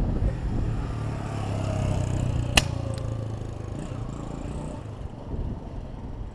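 A motor vehicle engine runs close by in street traffic, swelling and then fading, over road and wind noise. A sharp click comes about two and a half seconds in, with a fainter one soon after.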